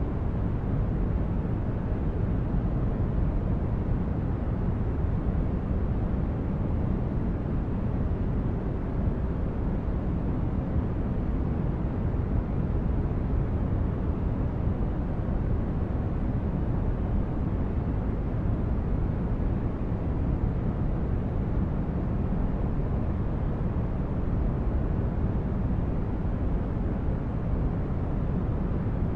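Steady, unchanging noise from a sleep-aid noise track. It is weighted toward the low end, a deep rumble rather than a bright hiss, and it never varies.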